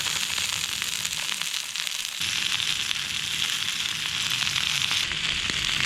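Food frying in a pan, a steady sizzle with fine crackling.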